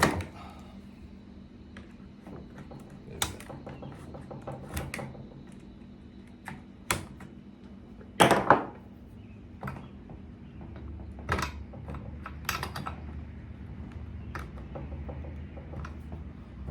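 Irregular clicks and knocks of hand tools and hard plastic and metal parts being handled while a spark plug is fitted to a Stihl FS55R string trimmer, the loudest a double knock about halfway through.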